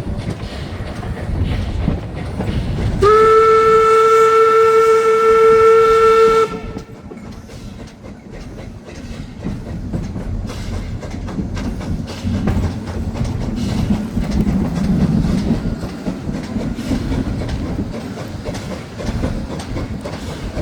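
A train running on rails with a low rumble and clickety-clack of wheels. About three seconds in, its whistle sounds one long, loud blast of about three and a half seconds, sliding up slightly at the start and then holding one pitch.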